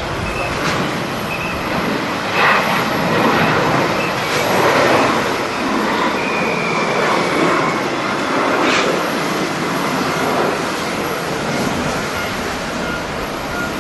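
Jet airliner engines, a loud steady rushing noise with a faint high whine sliding slightly down about halfway through.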